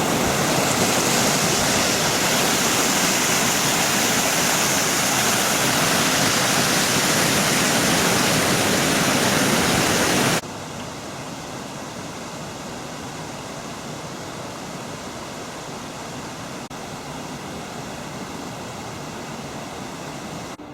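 Steady rushing noise, even across high and low pitches, which drops suddenly to a much quieter hiss about halfway through.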